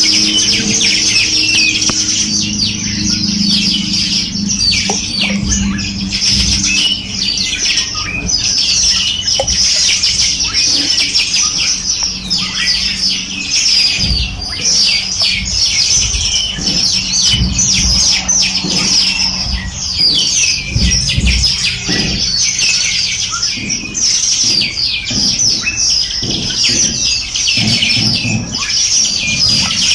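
A dense chorus of many small songbirds chirping and trilling at once, high-pitched and continuous. Underneath there is a low steady hum during the first half and scattered low thuds later.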